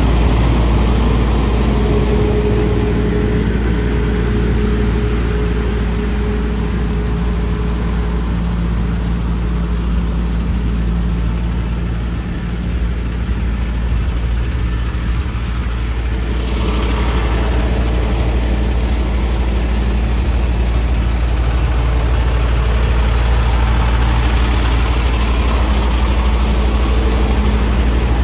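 Heavy vehicle engine idling steadily. About two-thirds of the way through, a rougher hiss joins it.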